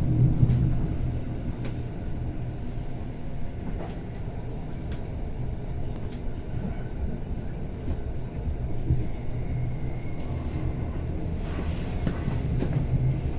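Bernina Express train running, heard from inside the carriage: a steady low rumble from the wheels and running gear, with scattered light clicks and knocks.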